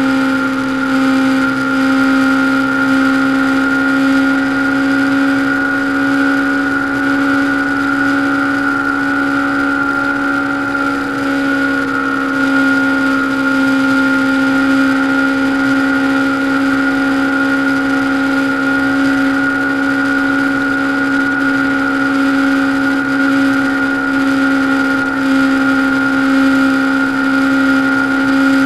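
Honda CBR500R's parallel-twin engine running at a steady high speed, its note holding an even pitch throughout.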